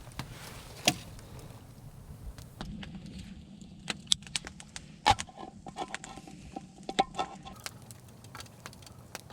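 Irregular sharp clicks and clinks, several of them with a brief ringing tone near the middle, over a steady low rumble.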